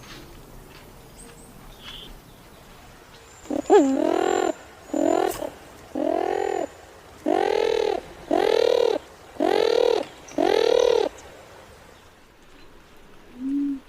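A bird giving seven loud, harsh calls in a row, each under a second long, presented as the call of the extinct passenger pigeon. The first call starts with a sliding note, a few faint chirps come before the series, and one short low coo-like note follows near the end.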